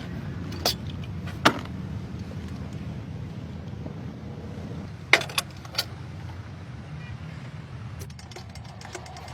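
A few sharp clicks and knocks, twice near the start and three close together about five seconds in, over a low steady rumble.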